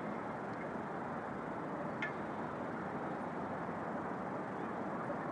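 Steady background hiss, with one faint click about two seconds in.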